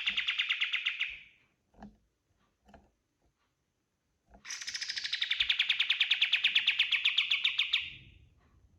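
Kapas tembak songbird singing rapid rattling trills of quickly repeated notes: one trill fades out about a second in, and a longer trill of about three and a half seconds starts near the middle and ends near the end.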